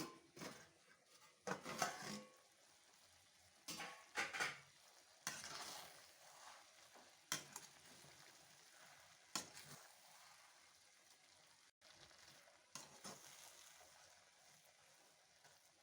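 Spoon stirring and scraping chicken vermicelli in a cooking pan, in several short strokes with faint quiet between.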